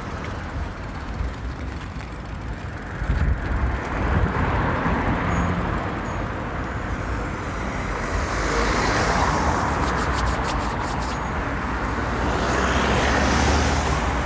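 Road traffic passing a moving bicycle, with wind rumbling on the microphone. Vehicles swell past about eight seconds in and again near the end, with a short run of clicks around ten seconds in.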